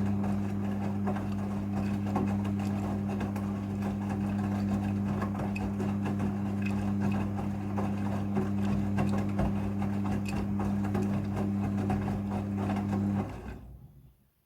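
Midea front-loading washing machine running with a steady electric hum and a busy sound of moving water, cutting off about 13 seconds in.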